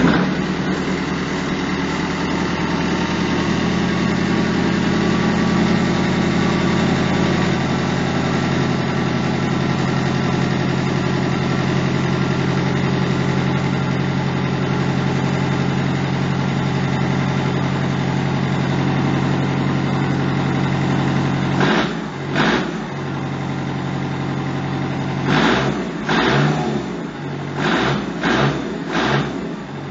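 Kubota tractor diesel engine running steadily just after starting. There is a short loud burst about two-thirds of the way through, and several more near the end.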